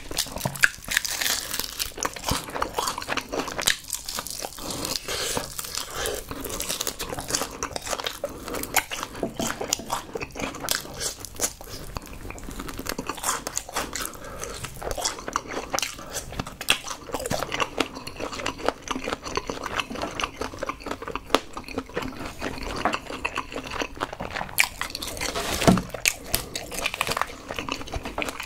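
Close-miked eating of Kyochon Honey Combo fried chicken: a long run of crisp, crackly crunches as the coated chicken is bitten and chewed, mixed with wet chewing sounds.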